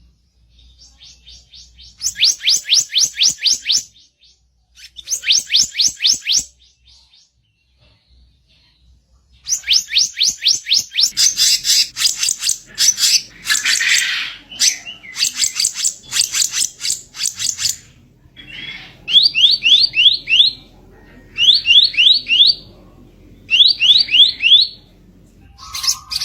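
Kicap ranting (black-naped monarch) giving its harsh song: bursts of fast, rapidly repeated rising notes, each burst one to two seconds long with short pauses between. Near the end come shorter, lower bursts in a steady rhythm.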